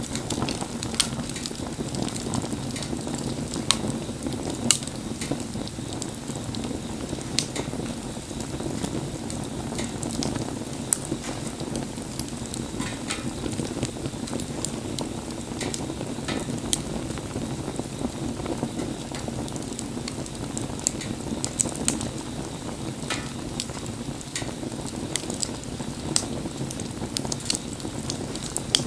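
Wood fire burning: a steady low rush of flame with irregular sharp crackles and pops from the burning wood.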